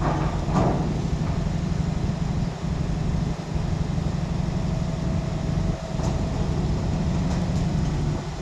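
Heavy diesel engine running steadily with a low hum, and a brief louder noisy burst near the start.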